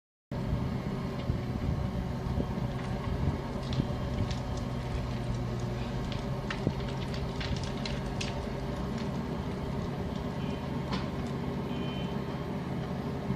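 A heavy vehicle's engine running steadily, starting abruptly just after the start, with scattered clanks and knocks over it.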